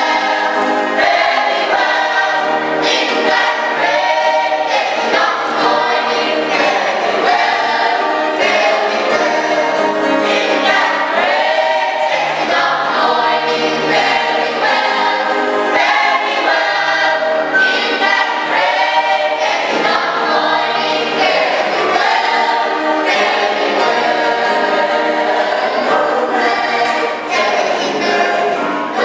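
Choir singing a gospel hymn, many voices holding and moving through sustained notes.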